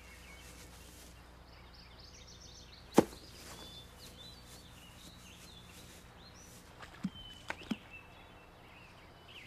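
Faint bird chirps over a quiet, steady background, with one sharp knock about three seconds in and a few softer taps a few seconds later.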